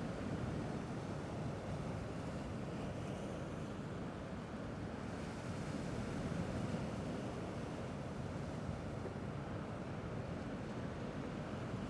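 Gentle sea waves washing on a rocky shore in a steady low wash, with slow swells, and some wind on the microphone.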